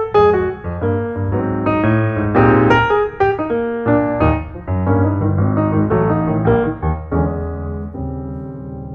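Piano music, a run of quick notes over low bass notes, settling into a held chord that fades near the end.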